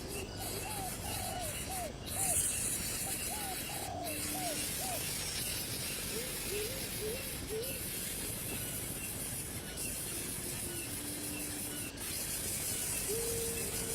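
A bird calling in runs of short, hooked notes, about three a second, then a few longer held notes, over a steady high-pitched buzzing hiss.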